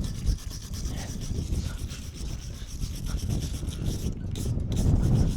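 Wind buffeting the microphone, a low rumble that rises toward the end, with a steady scratchy rubbing noise over it.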